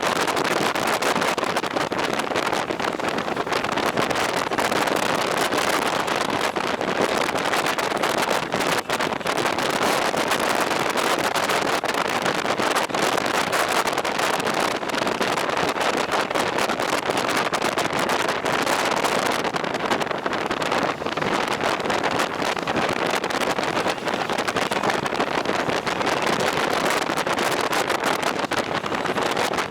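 Steady wind rushing and buffeting over the microphone while riding a two-wheeled vehicle along a road, with road and vehicle noise mixed in.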